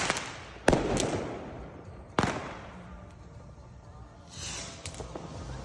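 Weco "Barbarian" four-stage firework battery firing: two sharp bangs about a second and a half apart, each trailing off in a rumbling echo, then a short hiss and a couple of faint pops near the end.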